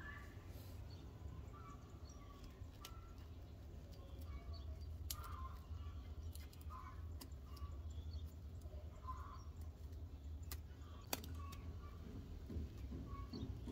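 Faint bird chirps scattered over a steady low hum, with a few sharp clicks from hands handling the plastic bottle neck and rubber band; the loudest click comes late.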